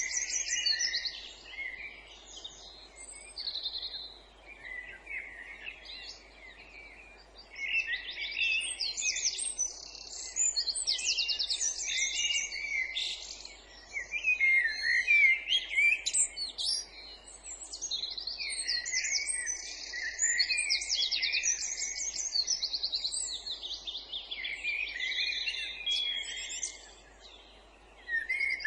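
Songbirds singing in varied phrases of fast trills, rattling notes and whistles, with short lulls between bursts of song.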